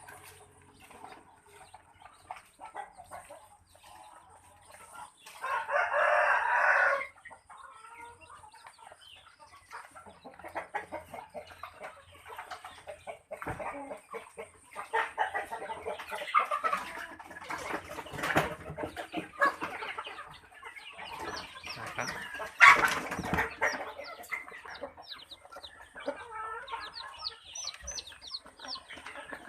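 Village chickens clucking, with one long rooster crow about six seconds in, and quick high chirps near the end.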